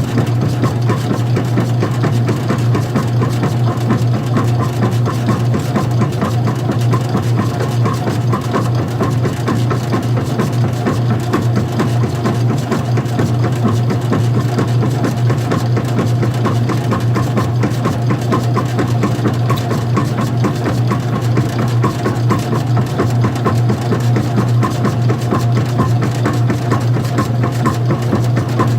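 Old-style front-loading washing machine running, heard with its cover off: a loud, steady electric motor hum that does not change.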